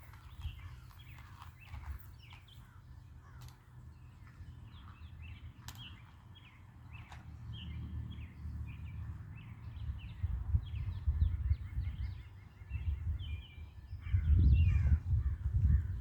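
Small birds chirping and calling over and over, with irregular low rumbling noise that swells louder in the last few seconds.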